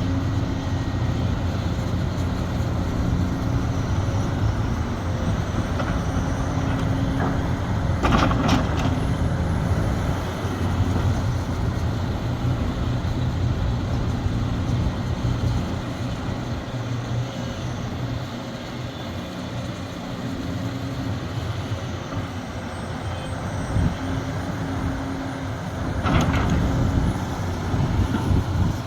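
Sumitomo SH370LHD-6 excavator's diesel engine running under varying load. There are a few sharp knocks about eight seconds in and another near the end.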